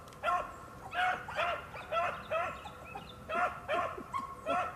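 Rabbit-hunting dog giving tongue while running a rabbit's scent trail: a steady string of short yelps, about two a second.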